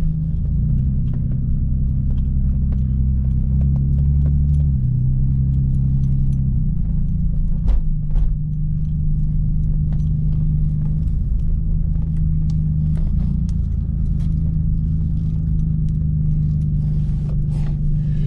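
A car engine idling close by: a steady low rumble, with a few brief clicks on top.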